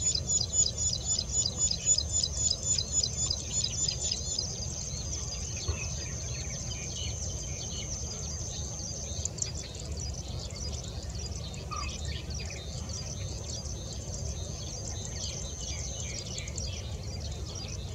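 Plain prinia singing a fast series of repeated high chirping notes, about three a second, which stop about four seconds in. A thin, steady, very high insect trill then comes and goes over a low background rumble.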